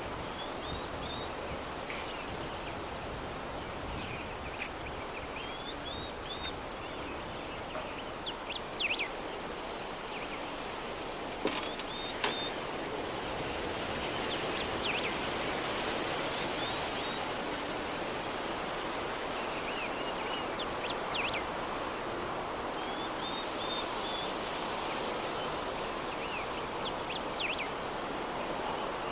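Soft, steady breeze that swells a little midway, with scattered short bird chirps and a couple of light clicks.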